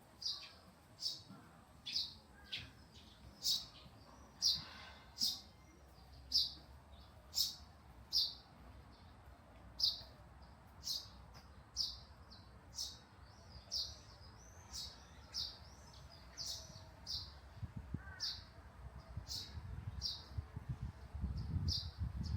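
A small bird chirping over and over, short high notes about one a second, a few of them sliding. A low rumble builds near the end.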